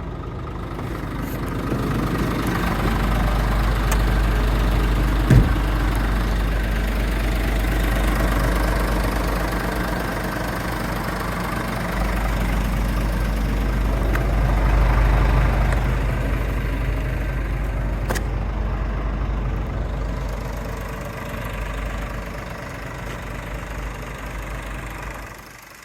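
Scania R450 truck's 13-litre inline-six diesel engine running, the level swelling and easing slowly, with one sharp knock about five seconds in.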